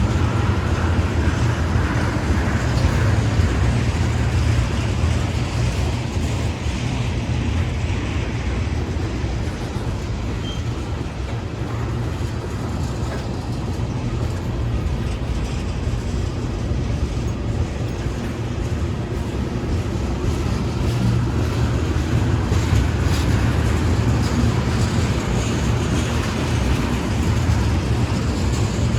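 Norfolk Southern intermodal freight train rolling past, a steady rumble of wheels on rail that swells and eases slightly.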